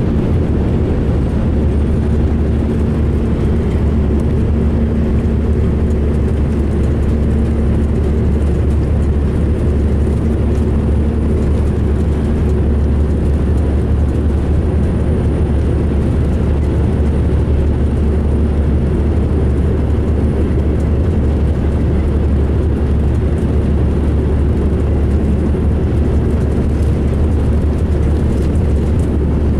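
2005 MCI D4500 coach's diesel engine running with a steady low drone. The uploader says this coach sounded rough running and idling.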